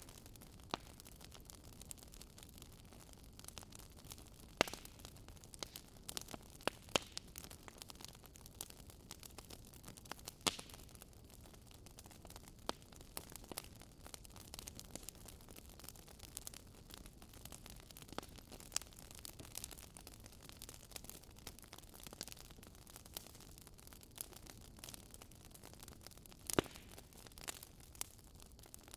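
Wood campfire crackling: irregular sharp pops and snaps, a few much louder than the rest, over a steady soft hiss.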